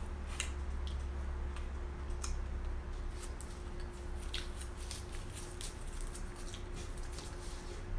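Close-miked eating sounds: chewing barbecue chicken, with irregular wet clicks and smacks of the mouth, over a steady low hum.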